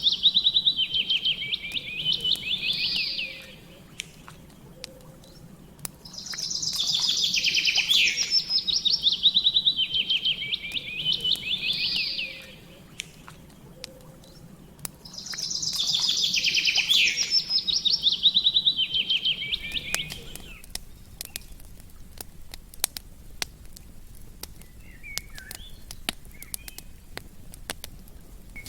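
A songbird sings three long trilled phrases, each about four seconds long and about nine seconds apart, over a campfire's light crackle. The bird falls silent about two-thirds of the way through, leaving only scattered crackles and pops from the fire.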